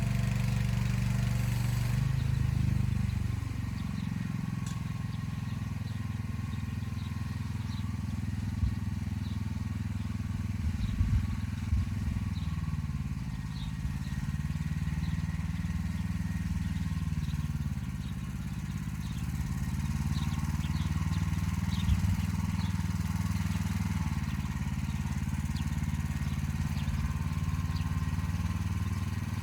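Motor Sich walk-behind tractor engine running under load while pulling an arrow-type hiller, its note dropping and recovering several times as the load changes. A few sharp knocks stand out, about a third of the way in and again about three-quarters through.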